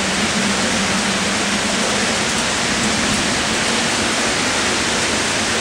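Heavy rain pouring down in a downpour, a dense steady hiss with no break.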